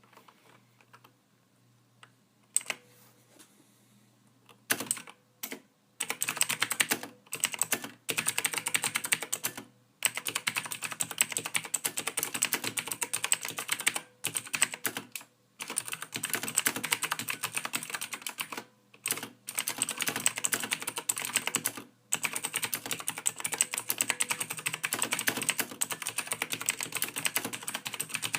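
Computer keyboard typing: a few scattered keystrokes in the first few seconds, then fast continuous typing in runs of several seconds with brief pauses between them.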